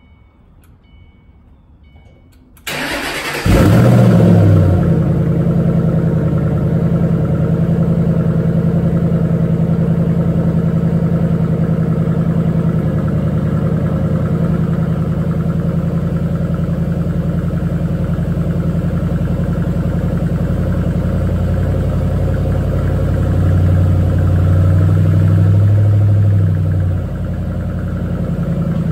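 2008 Ford Mustang GT's 4.6-litre three-valve V8 cold-starting through Pypes axle-back exhausts: a brief crank about three seconds in, then the engine catches with a loud flare and settles into a steady fast idle. Near the end a deeper drone swells for a few seconds, then the idle drops a step and runs quieter.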